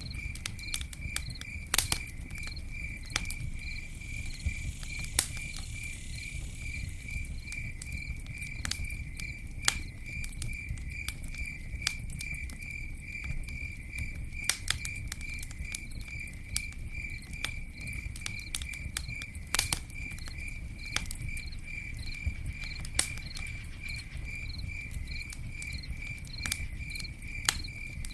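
A campfire crackling with scattered sharp pops, the loudest about 2 seconds in and near the middle, over a low steady rumble. A cricket chirps alongside in a steady, even rhythm of about three chirps a second.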